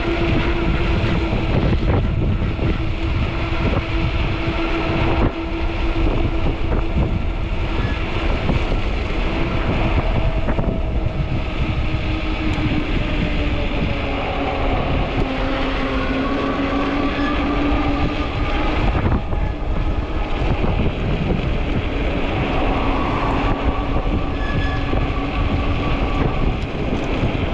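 Strong wind buffeting the microphone while riding a fat-tire electric bike, over a steady whine from the e-bike's hub motor. The whine's pitch sags a little about halfway through and comes back up.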